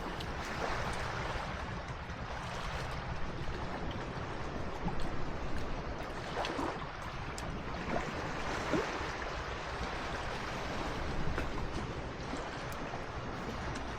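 Sea waves washing on the shore: a steady rush of water, with a few brief sharper surges.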